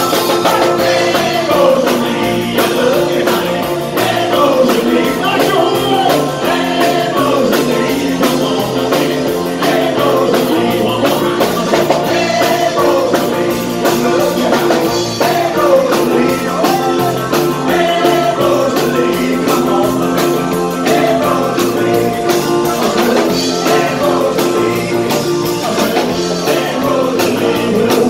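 Live rock and roll band playing, with electric guitar, a drum kit keeping a steady beat, and singing.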